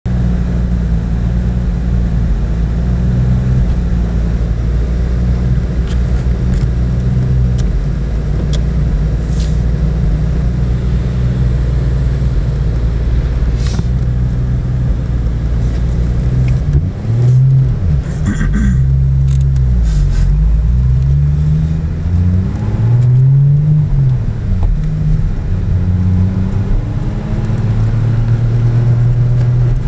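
Car engine heard from inside the cabin, holding a steady note for the first half, then revving up and down again and again from a little past halfway, as the car is driven sideways through the corners of a wet track.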